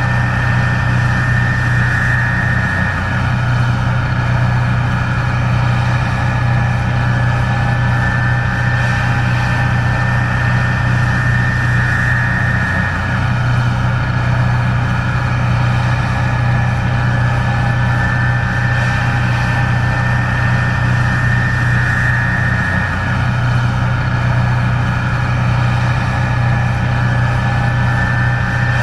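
Case IH 1660 Axial-Flow combine running steadily while harvesting corn: a heavy engine hum with a high whine above it that swells briefly about every ten seconds.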